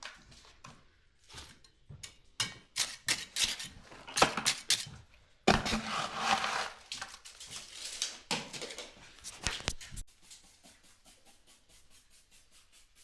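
Scraping and knocking of a hand tool working mortar, uneven at first, then a quick, even scratching near the end.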